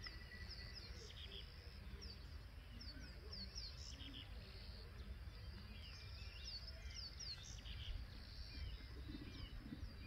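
Small birds give faint, high, short chirps, each falling in pitch and repeated many times, over a low steady rumble of outdoor wind noise.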